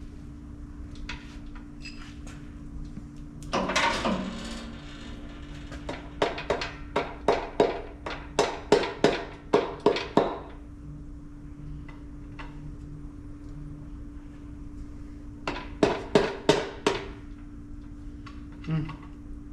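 An impact wrench run in a short burst about four seconds in, loosening the nuts on an overheated connecting rod's bearing cap. It is followed by a run of sharp metallic knocks at about two or three a second, and a few more near the end, over a steady low hum.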